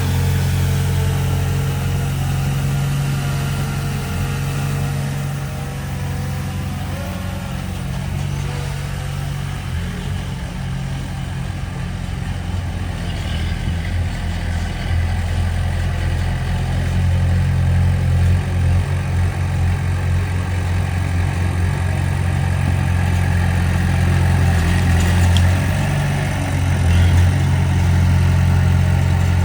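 Diesel engine of heavy earth-moving machinery running steadily with a deep low hum. It eases off slightly a few seconds in and builds again toward the end.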